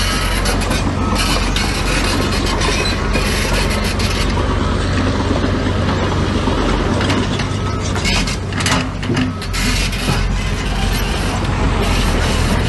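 Heavy earthmoving machinery working: a steady low diesel drone with continuous metallic clanking and rattling, dipping briefly about nine seconds in.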